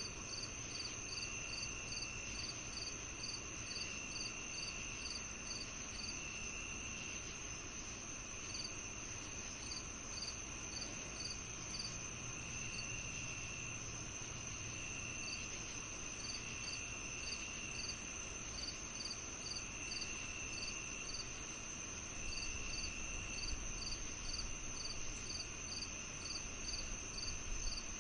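Crickets and other insects of a summer evening chirping and trilling together: one steady high-pitched trill, quick regular chirps about two a second, and a lower trill about a second long that comes back every couple of seconds.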